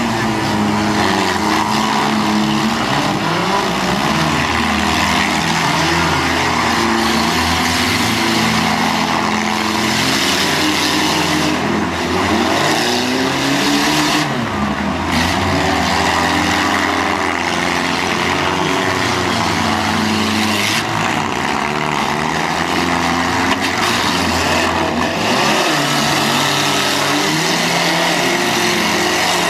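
Several demolition derby cars' engines running and revving at once, their pitches rising and falling against one another over a continuous wash of noise.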